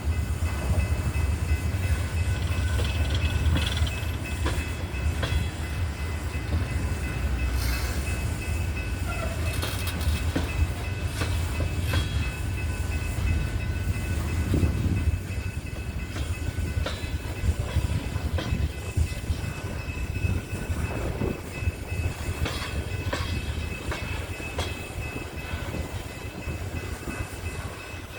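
Coal train cars rolling by with a steady low rumble. Scattered clicks and knocks come from the wheels over the rail joints, and a few faint steady high tones sit above. It grows slightly quieter toward the end.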